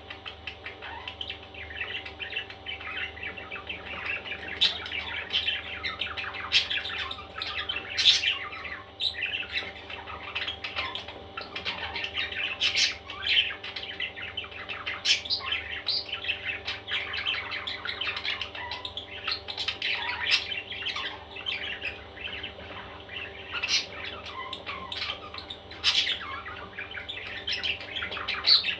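Baby parrots chirping and squawking, many calls overlapping without pause, with a few sharp clicks standing out.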